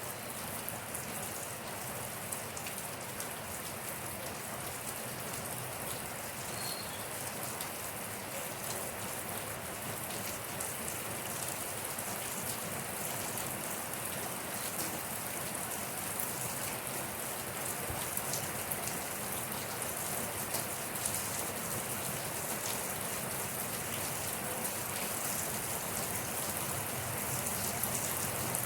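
Steady rain falling on a surface, a dense hiss dotted with many small drop ticks, getting slightly louder toward the end.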